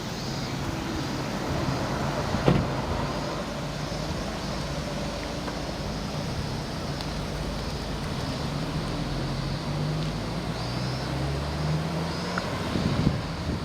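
A road vehicle's engine running close by over steady traffic noise, its low hum growing louder a few seconds before the end. A single sharp knock about two and a half seconds in.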